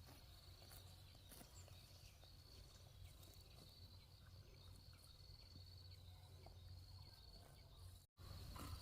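Near quiet outdoor background: a faint, steady high insect trill over a low hum, with a few soft ticks.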